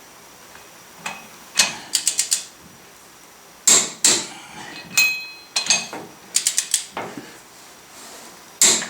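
Ratcheting torque wrench clicking as wheel lug nuts are tightened to about 140 ft-lb: short runs of quick ratchet clicks with single sharp clicks between them.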